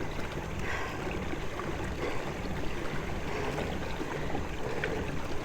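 Steady rush and gurgle of river current flowing around a kayak hull as the kayak is pushed upstream against it.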